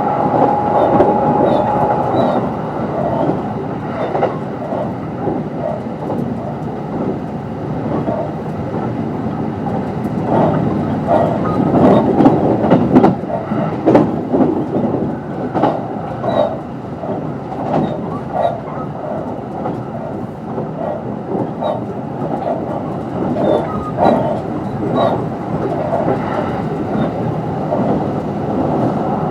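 Running sound inside a Kintetsu 22600 series limited express electric train at speed: a continuous rumble of wheels on rail, with repeated clicks as the wheels pass over rail joints. A faint steady whine stops about two seconds in.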